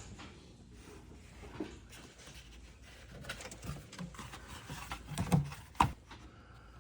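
Light clicks and rattles of parts and hand tools being handled under the hood, with two sharper knocks, a little over half a second apart, near the end.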